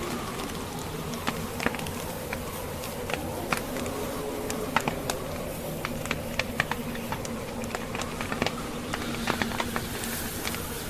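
Wood fire in a fireplace crackling, with many irregular sharp pops and snaps from the burning logs over a steady rushing background and a faint low drone.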